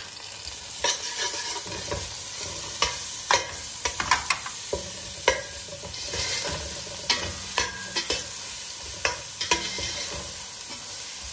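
Sliced onions and ginger-garlic paste sizzling in hot oil in a stainless steel pot, while a metal spatula stirs them, scraping and clicking against the pot at irregular moments throughout.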